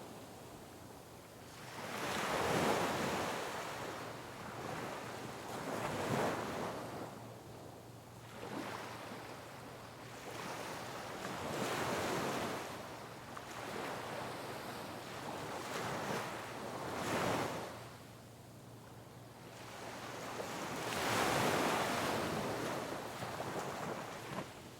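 Sea waves crashing on rocks, one surge of churning water after another every few seconds, the biggest breaking about two seconds in and again near the end.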